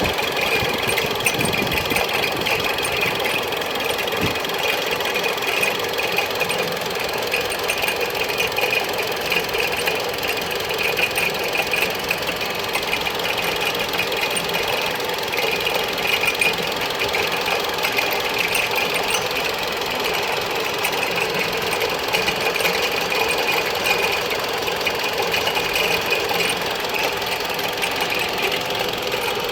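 Mitsubishi Lancer X 1.8-litre engine running steadily at idle, with a high squeak from the accessory belt drive that comes and goes over the engine noise.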